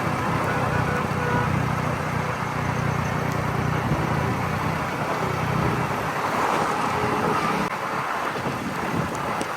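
A motor vehicle's engine running steadily under rushing wind noise, as on the move; the engine hum fades about six seconds in.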